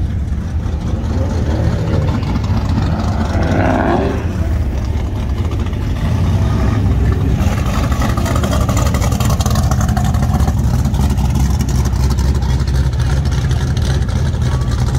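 Car engines rumbling steadily as cars cruise slowly past, the low exhaust note filling the whole stretch and growing a little fuller about halfway through.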